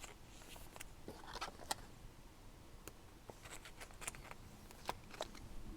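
Faint handling of trading cards: scattered soft clicks and slides as cards are flipped through one by one.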